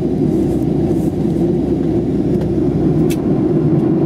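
Steady cabin noise of a Boeing 737 in flight: an even, unchanging low noise of engines and airflow heard from inside the cabin.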